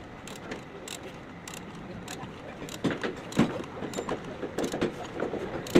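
Car repair work with hand tools: irregular metallic clicks and knocks, sparse at first, then louder and more frequent from about three seconds in.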